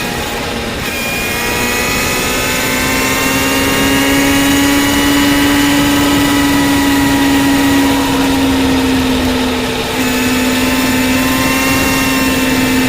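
Yamaha FZ6's 600 cc inline-four engine running while the bike is ridden, with a steady engine note. The pitch slowly rises, then eases off, and there is a short dip about ten seconds in.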